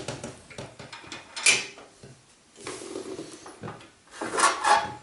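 A wood-burning fireplace is being worked by hand: scattered clicks and knocks, a short, sharp scrape about a second and a half in, and a louder sliding clatter of its metal fittings near the end.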